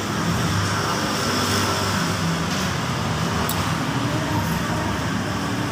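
Steady road traffic noise: the continuous rumble and hiss of passing vehicles.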